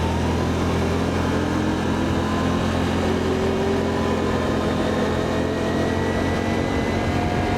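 Can-Am Outlander ATV engine running steadily while riding along a road, its pitch creeping up gradually as it picks up speed.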